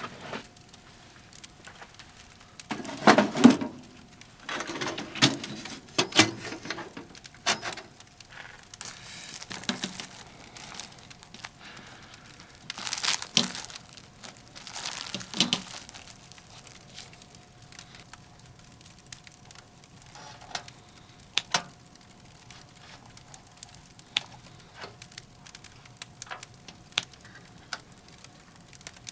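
Crinkling and rustling of handled material in several bursts through the first half, then scattered light crackles and clicks, typical of a wood stove fire burning.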